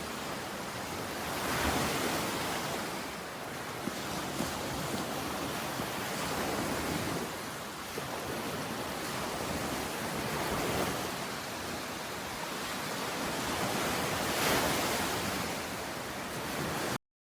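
Rushing outdoor noise that swells and eases every few seconds, with a few faint ticks, and cuts off abruptly near the end.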